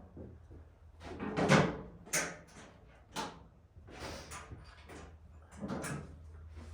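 A series of clunks and knocks, about five in all and the loudest about a second and a half in, over a steady low hum.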